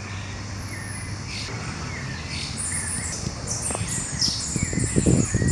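Several birds chirping and singing together in a dawn chorus, with short, repeated high calls over a low, steady background hum. Near the end, a few low thumps rise under the birdsong.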